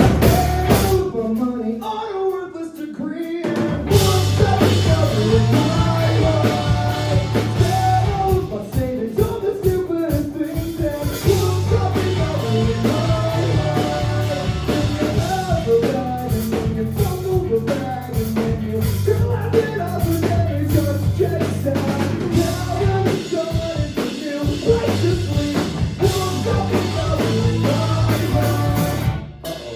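Rock band playing live, with drum kit and guitar. About a second in it thins to a quieter passage without the low end, and the full band comes back in at about four seconds.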